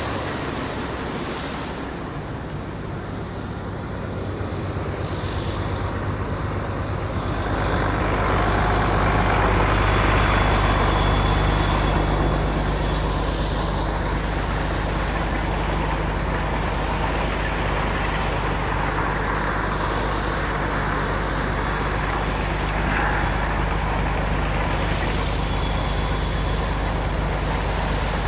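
Combine harvester running while threshing soybeans: a steady engine drone under a wide mechanical hiss, growing louder about seven seconds in.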